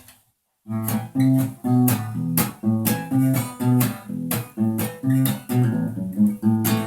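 Guitar playing a picked song introduction, a steady rhythm of plucked notes over low bass notes. It starts after a brief silence, under a second in.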